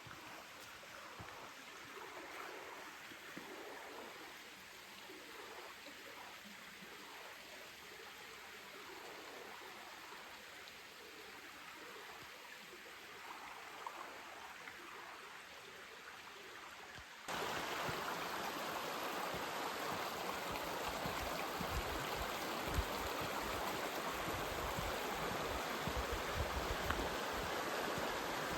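Running water of a mountain stream, faint at first, then suddenly much louder and fuller, rushing, about two-thirds of the way through.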